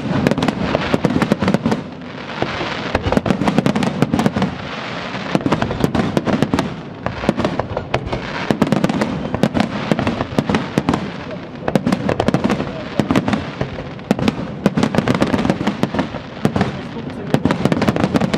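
Aerial fireworks display: a dense, continuous run of rapid bangs and crackles over a steady hiss and rumble, many reports a second.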